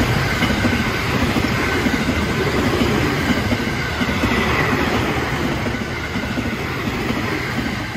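Electric multiple-unit passenger train passing close by: a steady rush of steel wheels running on the rails, easing slightly near the end.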